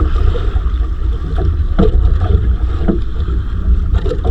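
Wind buffeting the microphone on a small fishing boat at sea: a steady low rumble, with a few short knocks from the boat about two and three seconds in.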